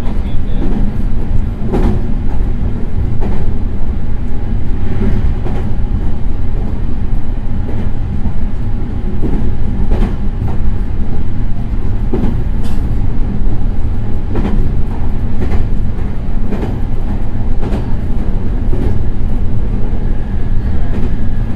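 Meitetsu 3100 series electric train running between stations, heard from inside the car: a steady low rumble of wheels on rail, with sharp rail-joint clicks every second or two. Faint steady whine tones come in near the end.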